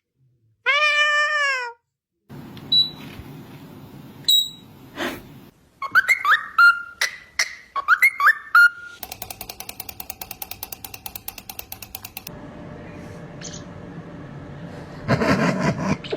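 Pet parrot vocalizing: a meow-like call about a second in, then a series of short whistled notes that rise and fall, a fast even run of clicks, and a loud noisy burst near the end.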